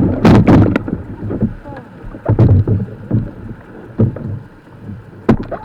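Whitewater churning and splashing around a kayak, in irregular loud surges with sharp splashes, several strong ones about two seconds and four seconds in and near the end.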